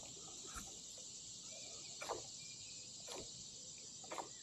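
Faint, steady high-pitched insect trilling beside a creek, with four short sharp ticks or splashes about a second apart.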